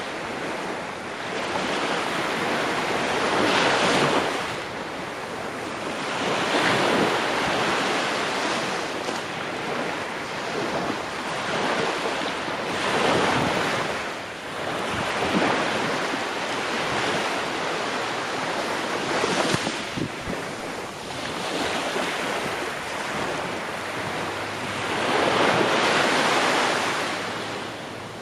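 Ocean waves breaking and washing on a shore, the surf swelling and falling back every few seconds, with wind in the background.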